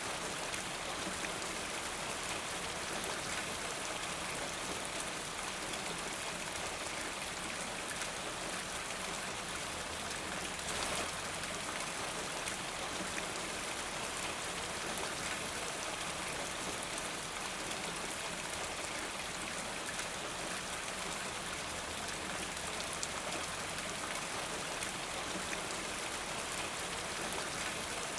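Steady rain falling, an even hiss of rainfall with scattered drop ticks and a slight swell about eleven seconds in.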